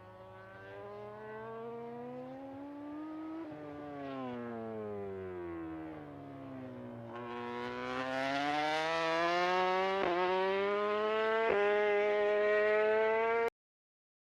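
MotoGP racing motorcycle engine at high revs. Its pitch climbs, falls away for a few seconds, then climbs louder again, broken twice by quick gear changes, before cutting off suddenly near the end.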